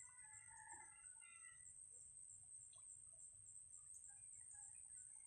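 Faint outdoor ambience: small birds chirping in short scattered notes over a steady, high-pitched pulsing buzz.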